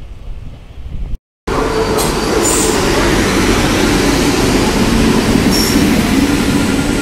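Tejas Express passenger train running close past along a station platform behind an electric locomotive: a loud, steady rumble of wheels and coaches, with brief high squeals twice. Before a cut about a second in, a train is heard fainter and farther off, with wind on the microphone.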